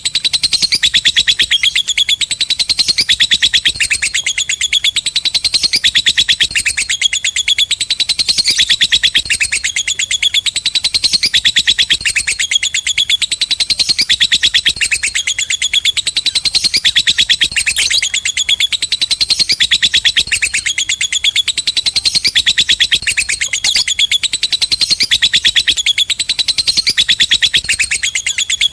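Lovebird ngekek: a long, unbroken, rapid high-pitched chattering trill, rising and falling in phrases about every two seconds.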